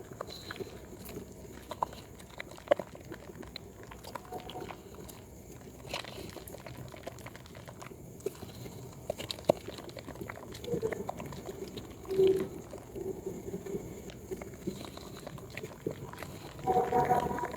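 Soaked yellow Proguard soap being lathered and squeezed by hand: wet squishing with scattered sharp clicks and pops as the softened soap and foam are worked. A short pitched squeak near the end is the loudest sound.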